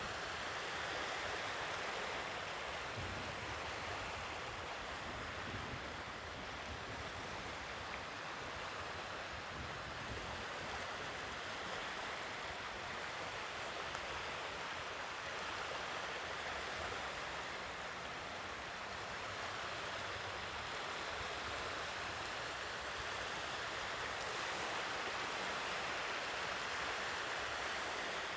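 Sea waves washing on the shore, a steady rush that slowly swells and eases.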